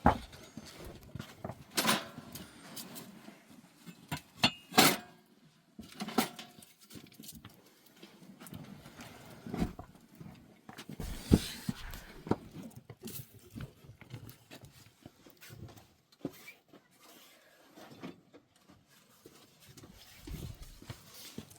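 Occasional animal calls among scattered knocks and clatter.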